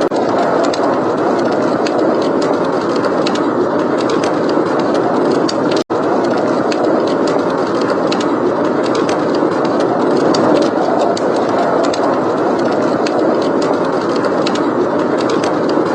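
Steady blizzard wind with fireplace crackling: frequent small crackles and pops over the wind. The sound cuts out for an instant about six seconds in.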